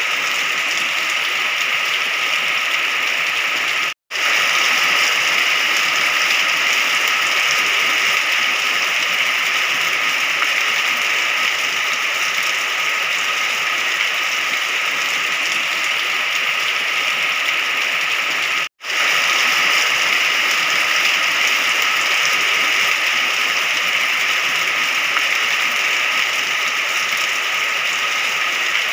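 Steady heavy rain, an even hiss of falling water, that cuts out to silence for an instant twice, about four seconds in and again near nineteen seconds.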